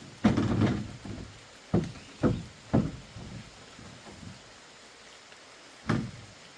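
A few irregular knocks and thuds of wood being struck or handled: a short cluster near the start, three single knocks about half a second apart, then one more near the end.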